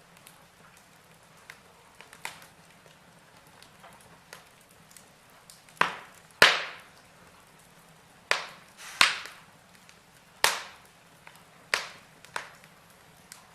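Logs burning in a fireplace, crackling with sharp, irregular pops over a faint steady hiss. A few small pops come first, then a run of loud cracks in the second half.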